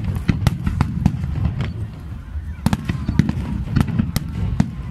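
Aerial fireworks display going off: a rapid string of sharp bangs, several a second, over a continuous low rumble.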